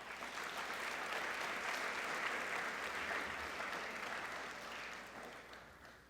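Audience applauding, starting at once, holding steady for about five seconds, then fading away near the end.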